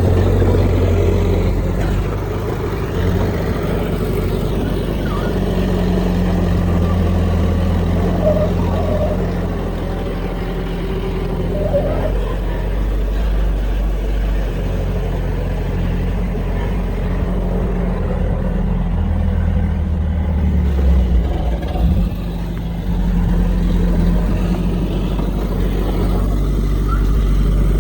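Heavy diesel engine of earthmoving machinery running and working, its note rising and falling as the load changes, with a brief knock about three-quarters of the way through.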